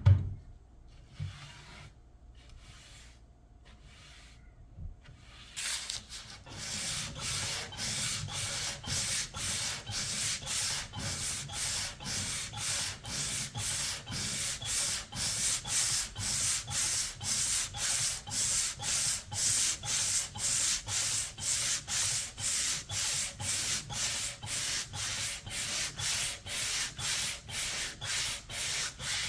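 A knock at the start, then a few light strokes, then hand sanding with sandpaper in steady back-and-forth strokes, about two a second, from about six seconds in, taking off old paint and finish.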